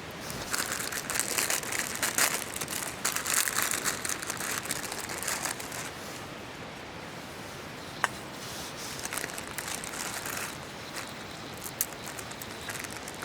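Plastic instant-noodle packet crinkling as it is handled and opened, densest in the first six seconds, with lighter rustles later and a single sharp click about eight seconds in.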